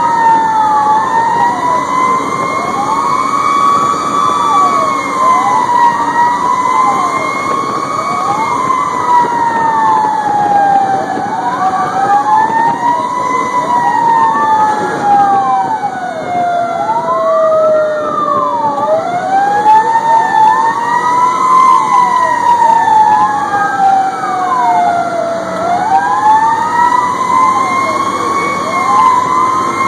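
Fire engine sirens sounding together: a slow wail rising and falling over several seconds, overlaid by a faster wail that cycles about every one and a half to two seconds, over the truck's running noise.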